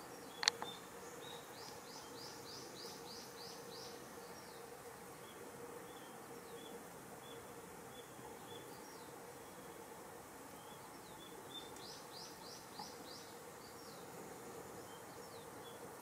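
Faint outdoor ambience: a small bird sings a fast run of short down-slurred notes about a second and a half in, and again near the end, over soft regular chirps and a faint steady hum. A single sharp click half a second in is the loudest sound.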